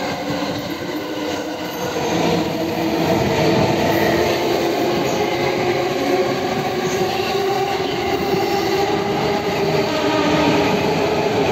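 Two JR E217-series electric commuter trains running side by side on adjacent tracks, one pulling out and one pulling in: a steady rumble of wheels on rail with a humming motor tone. It grows louder about two seconds in.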